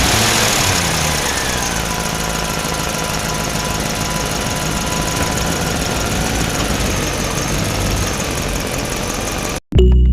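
Tractor engine running: it comes down in pitch after a rev and settles to a steady idle, then cuts off suddenly near the end.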